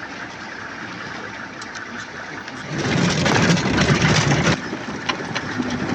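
Safari vehicle's engine running during a game drive, growing louder for about two seconds starting around three seconds in, then settling back.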